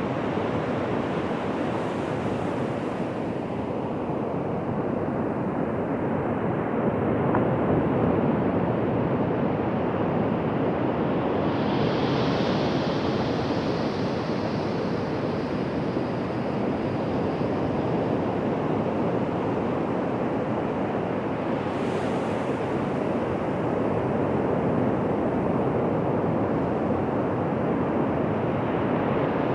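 Ocean surf: a continuous wash of waves breaking and running up the beach, swelling and easing, with a brighter hiss of a breaker about twelve seconds in.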